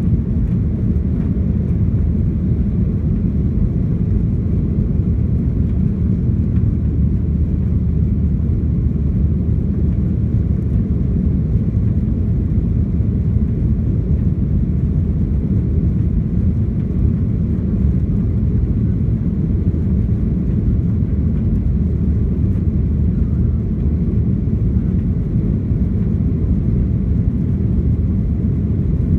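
Steady drone of a Boeing 737-800's CFM56 engines and airflow heard inside the passenger cabin in flight, a constant low rumble.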